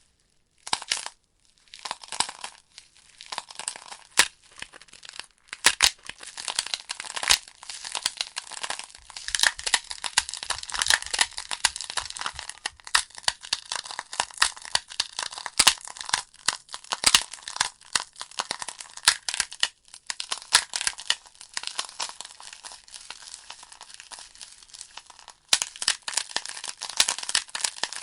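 Wood logs burning in a fireplace, crackling with frequent sharp pops and snaps over a steady hiss of flame.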